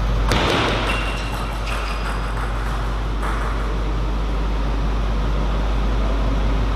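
Steady low hum under a constant noise background. A sudden noisy burst about a third of a second in is followed by a scatter of light clicks over the next two seconds.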